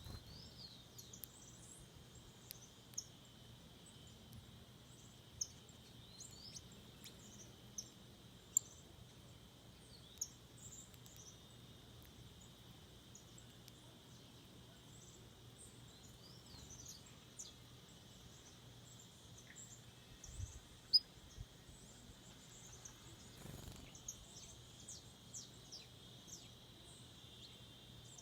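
Wild birds giving many short, high chirps and calls over a steady high-pitched insect drone.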